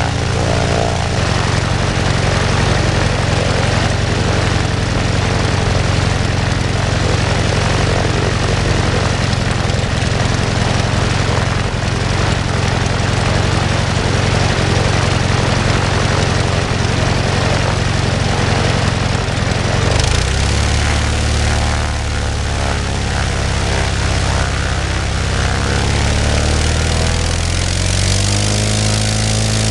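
Global half-VW engine (a two-cylinder, four-stroke boxer) running steadily at high power with its propeller turning. About two-thirds through it is throttled back to a lower, wavering speed, and it picks up again near the end.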